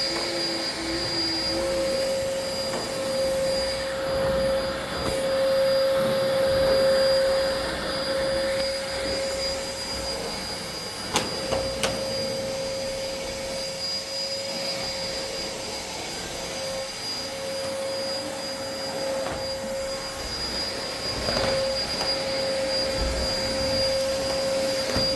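A small motor running steadily with a constant whine over a noisy hum. Two sharp clicks come about eleven seconds in.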